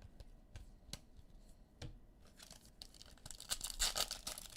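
A trading-card pack wrapper being torn open and crinkled, starting about two seconds in and growing louder toward the end, after a few light clicks of cards being handled.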